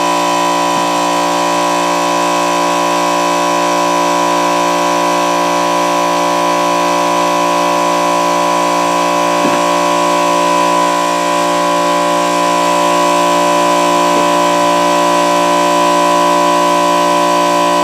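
Portable generator engine running steadily and noisily, a constant whine of many fixed tones.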